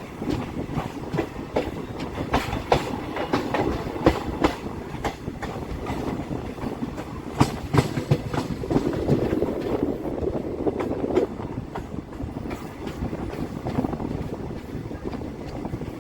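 Express train running on the line, its wheels clacking over rail joints with a continuous rumble; the clacks come in irregular clusters, thickest in the first half.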